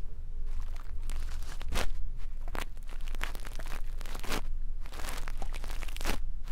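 Brush bristles stroking and scratching right against the microphone in ASMR ear cleaning: several short, crackly strokes over a steady low rumble.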